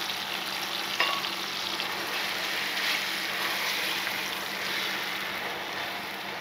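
Coarsely blended red chili, shallot and garlic sambal paste sizzling steadily in hot oil in a frying pan as it is stirred with a spatula. There is one sharp tap of the spatula on the pan about a second in.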